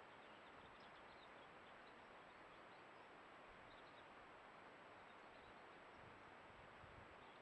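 Near silence: faint outdoor background hiss with scattered faint, high chirps of small garden birds.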